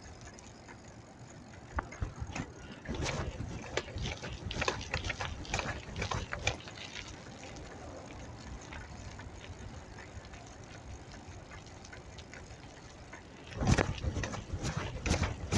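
Bicycle being ridden: a steady rush of road and wind noise, with clusters of clicks and rattles over the first half and a louder burst of noise near the end.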